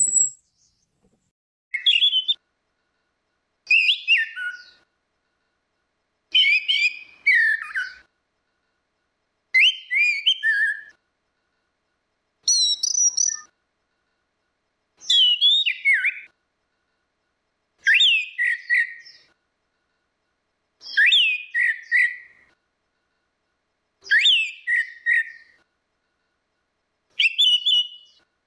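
Orange-headed thrush singing: short phrases of quick whistled notes, many falling in pitch. About ten phrases come roughly every three seconds, with silent gaps between them.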